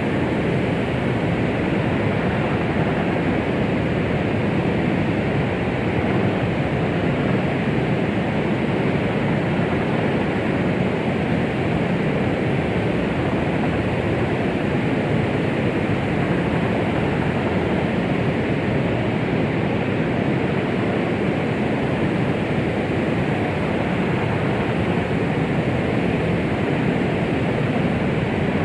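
Steady white-noise 'womb sound': an unbroken rushing hiss at an even level, weighted toward the low and middle range and dropping off in the highs.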